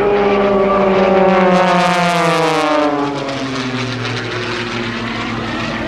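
Propeller airplane's piston engine passing close by, its engine note falling steadily in pitch as it goes past, then fading somewhat.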